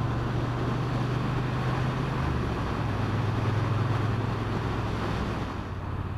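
Triumph Bonneville T120's parallel-twin engine running steadily on the road, with wind rushing over the microphone. The engine and wind ease off near the end as the bike slows.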